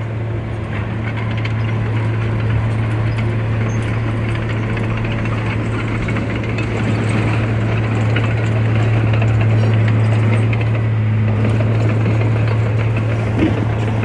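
Heavy diesel earthmoving machinery running steadily, a constant low engine hum with metallic clattering and rattling over it, swelling a little around the middle.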